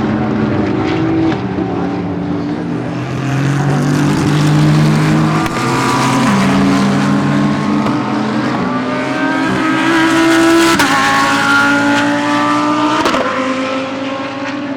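Several GT3 race cars passing at speed, their engines overlapping. One accelerates with a rising note and upshifts twice, with sharp drops in pitch about eleven and thirteen seconds in.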